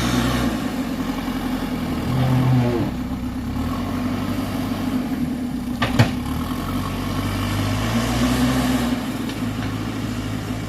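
Dump truck engine running steadily, its note shifting a little now and then, with one sharp knock about six seconds in.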